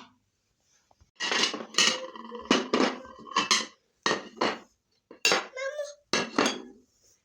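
Dishes and cutlery clinking and clattering as they are handled: a string of about ten sharp knocks, several leaving a short ringing tone.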